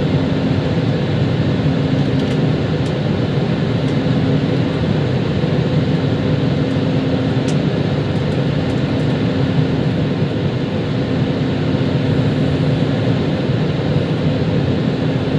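Airbus A320 cabin noise in flight: the steady rush of airflow and the twin jet engines, with a low hum that fades in and out.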